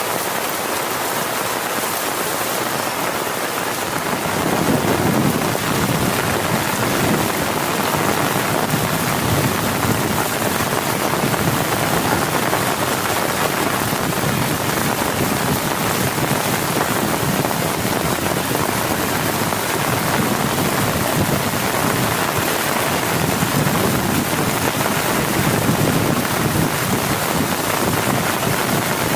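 Heavy rain falling steadily, with thunder coming in about four seconds in and rolling on as a deep, swelling rumble under the rain.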